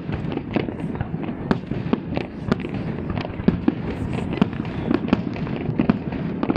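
Aerial firework shells bursting in quick succession: an irregular run of sharp bangs, two or three a second, over a continuous rumble.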